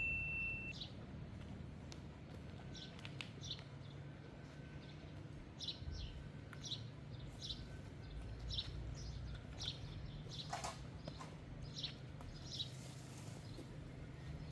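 A small bird chirping repeatedly, short high chirps about once a second, over a steady low background noise.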